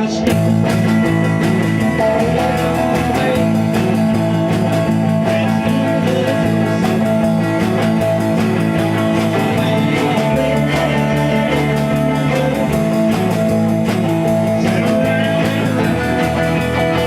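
Rock band playing an instrumental passage, guitar to the fore over a steady bass line and beat.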